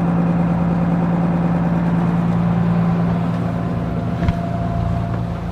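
Boat engine running steadily with an even low hum, and a single brief knock about four seconds in.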